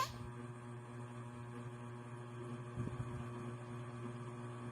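Low steady electrical hum in a quiet room, with a faint soft sound about three seconds in.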